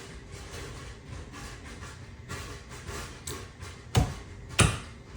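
Two sharp knocks about half a second apart near the end, over faint background noise.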